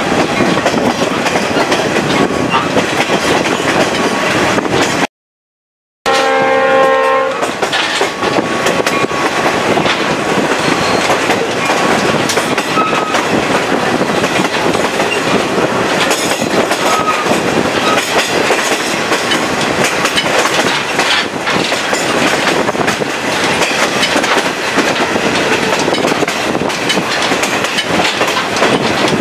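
Chepe passenger train running, heard through the open window of the vestibule between cars: a steady rush of wheels on rail and wind. The sound cuts out for about a second some five seconds in, and just after it the locomotive horn sounds briefly, for about a second and a half.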